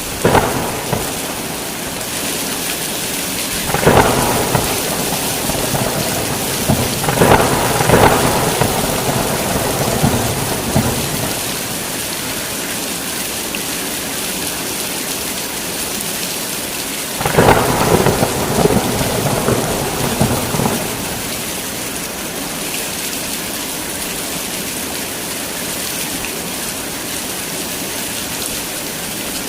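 Heavy rain falling steadily, with several cracks and rumbles of thunder: a short one right at the start, one about 4 seconds in, a longer rolling peal around 7 to 11 seconds, and another around 17 to 21 seconds.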